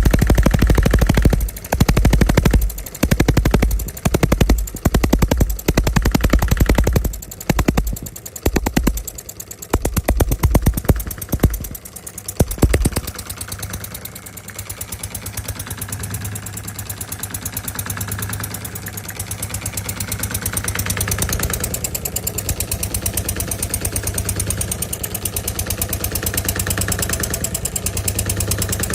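D16 model diesel engine running. For roughly the first half it surges unevenly, with heavy low pulses broken by short drop-outs, then it settles into a steady, even run.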